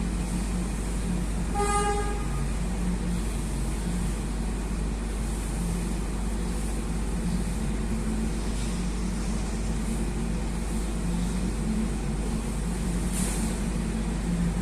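Heavy dump truck's diesel engine running steadily, with a short horn toot about two seconds in.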